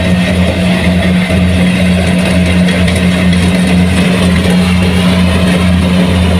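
Kubota rice combine harvester's engine running steadily under load, a continuous low drone with a slight regular pulsing beneath it.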